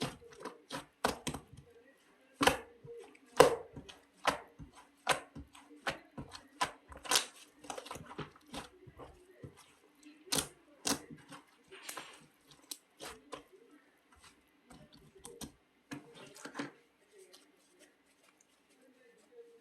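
A run of irregular sharp clicks and knocks, several a second at first and sparser near the end, over a faint steady hum.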